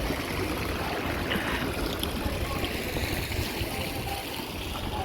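Water running steadily with an even rushing sound, with a low rumble beneath it.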